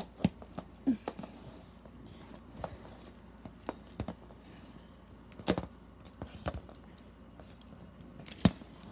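Scattered light clicks and taps of plastic dolls and toy food being handled, with a sharper click near the end.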